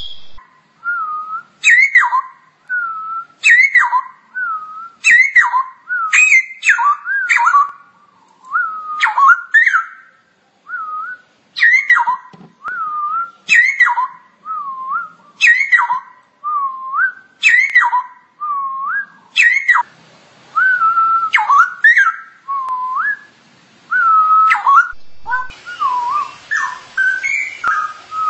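Straw-headed bulbul (cucak rowo) singing: short, loud, liquid whistled phrases repeated every second or two, each opening with a sharp high note that sweeps down into a warbled whistle.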